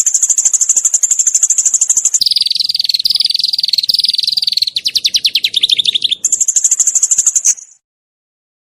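Small songbird giving rapid, dense trills in the 'nembak' (shooting) style: a fast high trill, a lower trill about two seconds in, then a run of quick rising notes, and the high trill again before it cuts off abruptly near the end.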